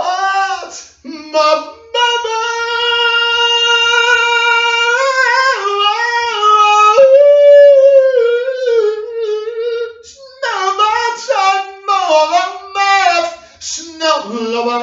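A single high-pitched voice singing wordlessly without accompaniment: a long held note from about two seconds in, then wavering, gliding phrases and, after a short break, quicker shorter phrases.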